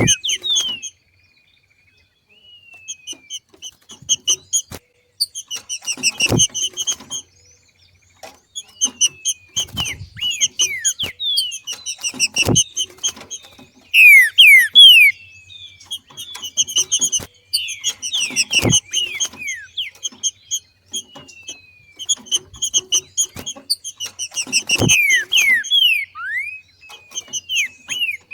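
Green-winged saltator (trinca-ferro) giving its 'macheado' call: bursts of quick, downward-sliding whistled notes repeated in phrases every couple of seconds, the loudest phrase about halfway through. Sharp knocks sound roughly every six seconds between the phrases.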